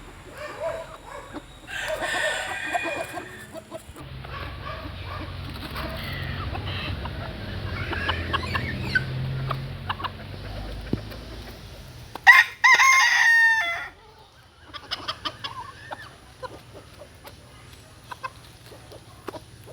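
Chickens clucking, with a rooster crowing loudly once about twelve seconds in for under two seconds. Short sharp ticks follow near the end.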